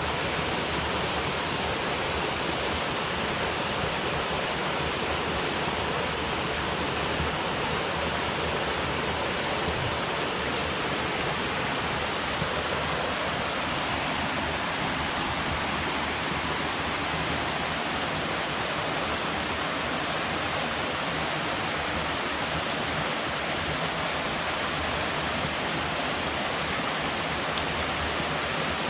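Steady rush of river water falling and flowing below a dam, an even, unbroken roar.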